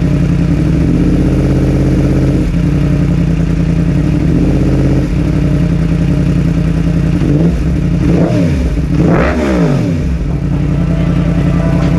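2021 Yamaha R1's crossplane inline-four running through a Graves exhaust, steady at first, then its pitch swinging up and down a few times about eight to ten seconds in.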